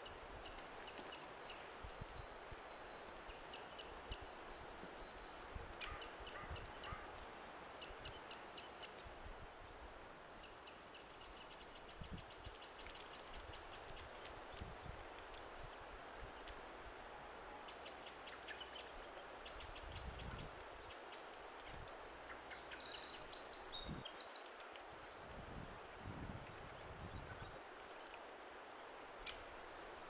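Small wild birds calling and singing: short high chirps repeated every second or two, a rapid trill a little before the middle, and a louder burst of song past the middle.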